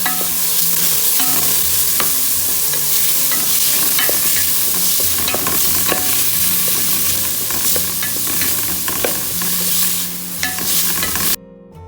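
Food sizzling as it fries in a pot, stirred with a spatula that clicks and scrapes against the metal. Near the end the sizzling cuts off suddenly and acoustic guitar music comes in.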